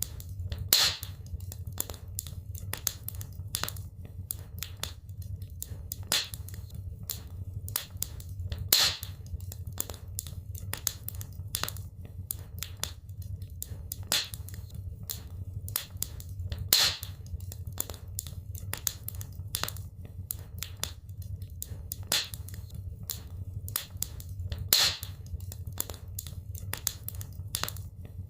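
Wood fire in a fireplace crackling: many small sharp snaps, a louder pop every few seconds, over a steady low rumble of the flames.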